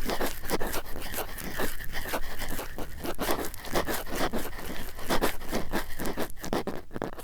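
Cotton swabs rubbed and scratched close against the microphone in quick, irregular strokes, several a second: a dry, scratchy ASMR trigger.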